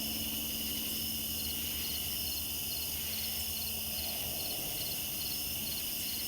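Night insects, crickets among them, chirping steadily, with a short pulsed chirp repeating about once a second over a continuous high trill.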